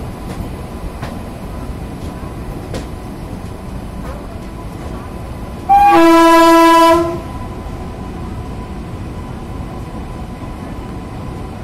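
Passenger train running on the rails with a steady rumble, heard from aboard a coach. About six seconds in, a train horn sounds one loud blast lasting about a second and a half.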